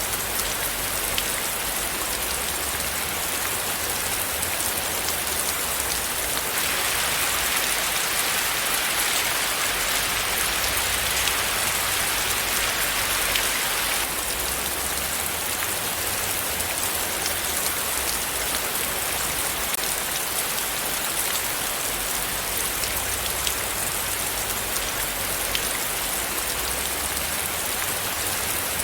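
Steady rain falling, with the patter of individual drops. From about seven seconds in it grows a little louder and brighter for several seconds, then settles back.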